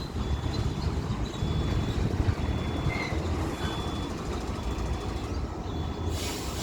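Low, steady jet-engine rumble of a Boeing 787-9 airliner, a little quieter than just before. Faint, short high-pitched beeps come and go over it.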